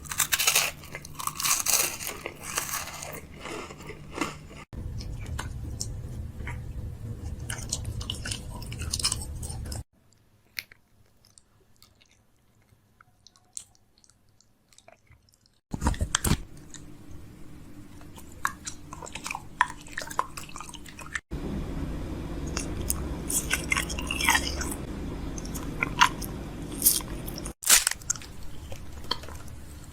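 Crunchy chewing and biting, in several abruptly cut segments, with a stretch of near silence lasting about five seconds from around ten seconds in.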